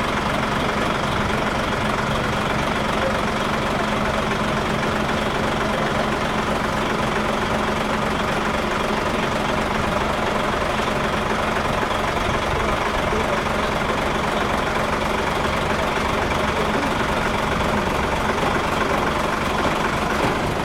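Heavy vehicle engine idling steadily, an even hum that does not change.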